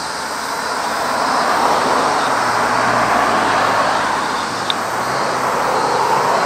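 Subway train running, a steady rushing rail noise that swells slightly and then holds.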